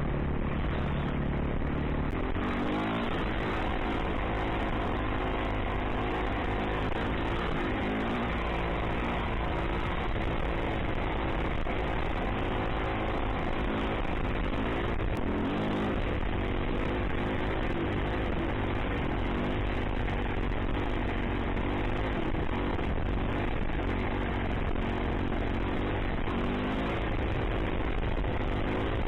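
Dirt bike engine being ridden hard, its pitch rising and falling over and over as the throttle is opened and closed.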